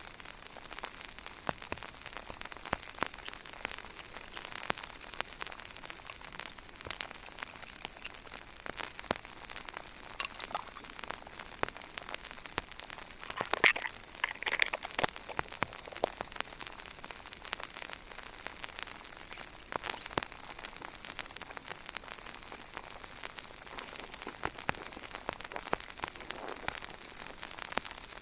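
Rain falling steadily, with many sharp drop ticks hitting a nearby surface and a louder patch of ticking about halfway through.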